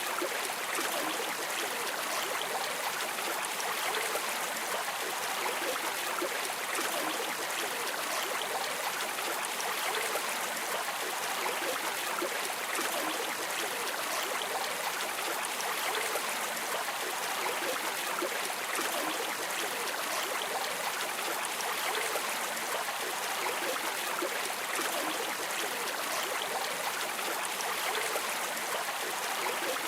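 Flowing river water, a steady, even rushing and trickling that does not change.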